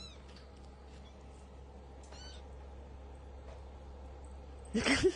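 Faint, high-pitched cat mews, twice, then a louder cry near the end.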